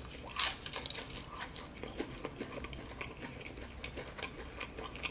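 Close-up crunching and chewing of a crispy Shake 'n Bake oven-baked chicken drumstick: a bite about half a second in, then a run of small crisp crunches as the breaded crust is chewed.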